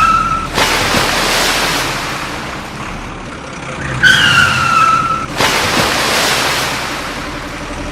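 Cartoon truck sound effects: a short falling tyre squeal followed by a rushing hiss lasting about two seconds, the pair heard twice, over a steady low engine hum.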